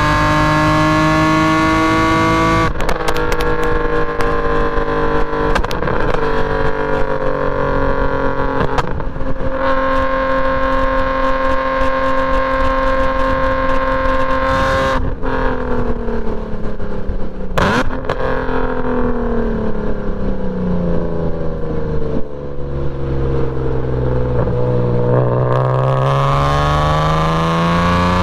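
BMW E46 M3's straight-piped S54 straight-six engine driven hard, with revs changing through gear shifts. Revs climb, drop at an upshift about two and a half seconds in, then hold steady for several seconds. After another shift with a sharp click, the revs fall steadily, then climb again near the end.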